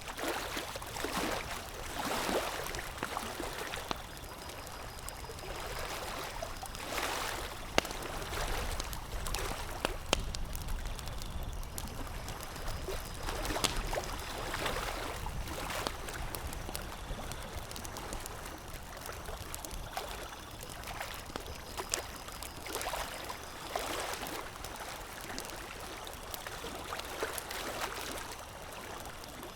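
Water lapping and splashing in swells every few seconds, with scattered sharp pops and crackles of a burning campfire.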